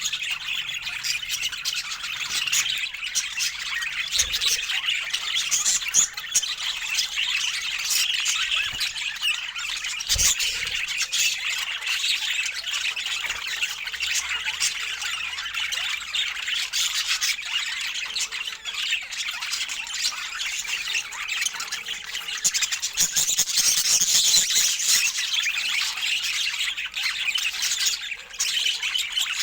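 Several budgerigars chattering and warbling continuously, dense overlapping calls, with an occasional sharp knock.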